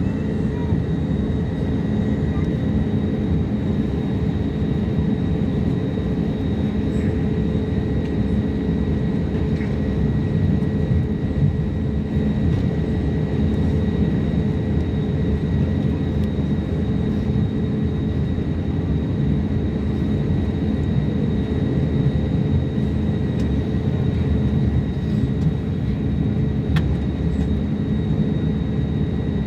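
Steady airliner noise with a dense low rumble of engines and airflow, and a thin high whine that holds one pitch.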